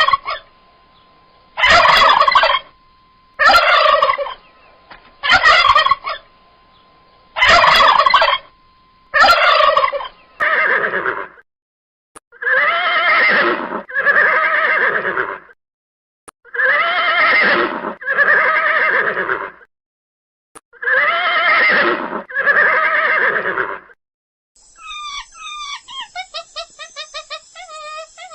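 Domestic turkey gobbling again and again: short calls about every second and a half, then longer calls in pairs. Near the end a different, fast rhythmic trill takes over.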